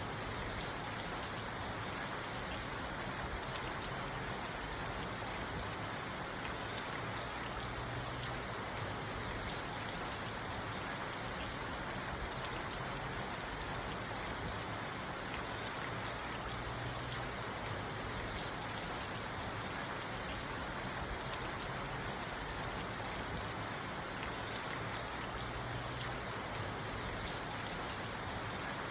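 Steady rain falling on a parked car, heard from inside the cabin.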